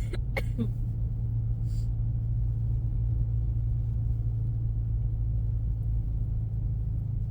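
Steady low in-cabin drone of a 2024 Ford Mustang EcoBoost's turbocharged four-cylinder engine and tyres cruising on a snow-covered road, with a constant low hum.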